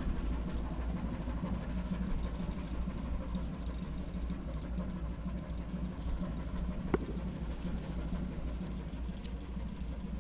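Steady low drone of a ship's engine running, heard from the deck. A single sharp click sounds about seven seconds in.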